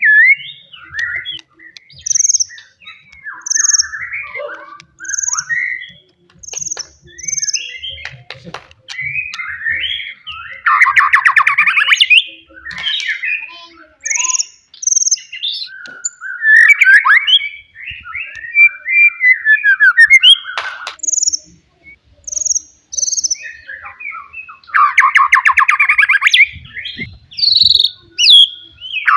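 White-rumped shama singing loudly in a varied song of whistled phrases and short high squeaky notes. Two long, rapid buzzing rattles break into it, one about ten seconds in and another near the end.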